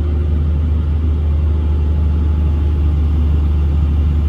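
Hitachi long-reach excavator's diesel engine running steadily under working load, heard from inside the cab as a loud, even low drone.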